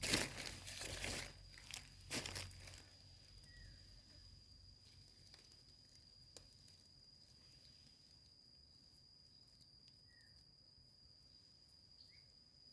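Crunching and rustling of soil and leaf litter as a clump of termite mushrooms is dug and cut, lasting about the first three seconds. After that only a faint, steady, high-pitched insect call remains.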